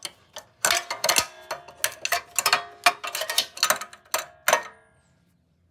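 Hand tools working on minibike metal parts: about fifteen sharp, irregular metallic clicks and clinks, each with a short ringing note, stopping near the end.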